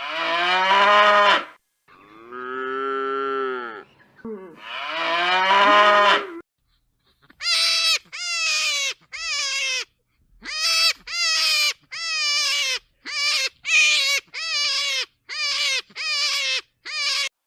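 Cow mooing: three long moos, one after another. They are followed by about a dozen short, higher calls from another animal, each dropping in pitch at its end.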